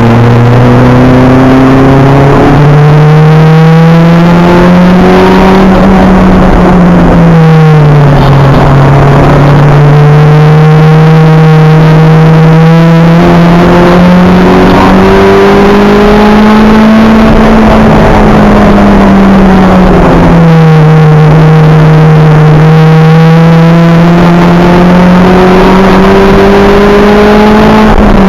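Acura Integra race car's engine heard from inside the car, very loud, at racing speed on track. Its pitch climbs steadily under acceleration and then falls sharply, about a quarter of the way in, about two-thirds in, and at the very end, as the driver lifts for corners or changes gear.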